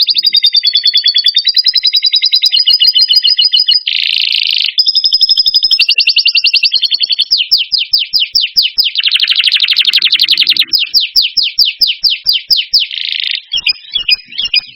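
Songbird singing a fast, varied song of rapid trills and quick runs of repeated notes, broken by a few harsh buzzy stretches, played as a masteran tutoring track for caged songbirds.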